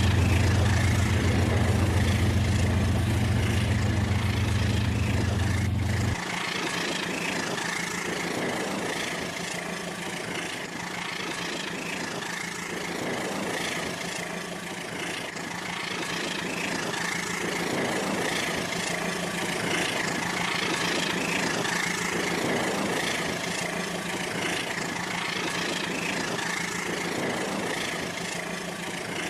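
Rail King remote-control toy train running on its track, a steady small-motor whir. A deep hum underneath stops abruptly about six seconds in.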